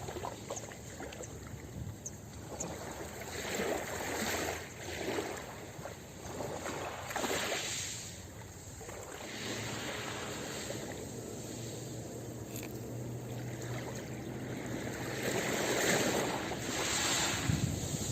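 Ocean waves washing onto a beach, the surf swelling and easing every few seconds.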